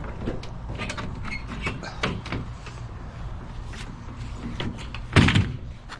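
Scattered clicks and rattles of gear being handled, over a low steady hum, with one loud thump about five seconds in.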